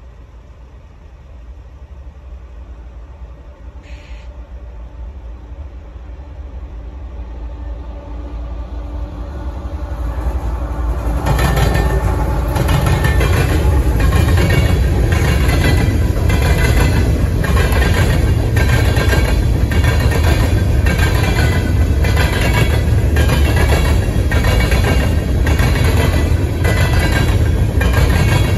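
A freight train approaches, growing steadily louder over about ten seconds, then from about 11 seconds in its covered hopper cars roll past close by with a steady, rhythmic clickety-clack of wheels over the rail joints.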